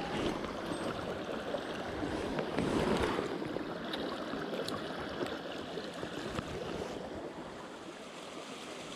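Small mountain stream flowing, a steady rush of water over rocks.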